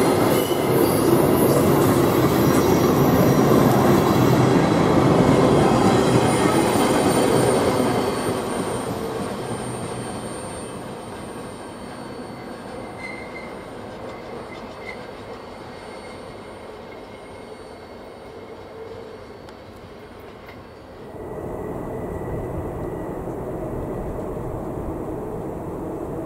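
Freight train rolling past on a sharp curve, its wheels squealing against the rail in thin high tones over the rumble of the cars. The sound is loud for the first several seconds, then fades away. It jumps to a quieter steady rumble about 21 seconds in.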